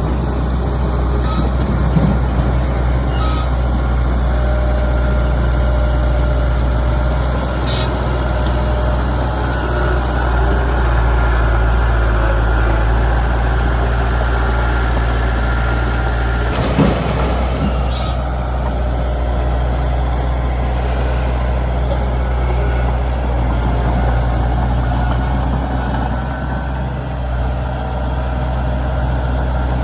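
Heavy diesel earthmoving machinery running steadily, with a few short metallic knocks about 8 seconds in and again twice near the middle.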